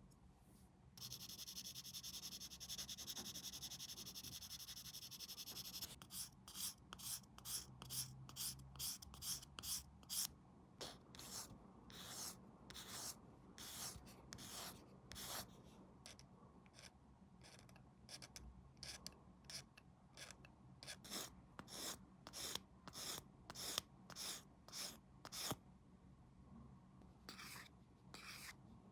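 Small plastic model part being sanded or filed by hand, in short back-and-forth strokes at about two a second. A steady hiss runs for the first five seconds or so before the strokes begin.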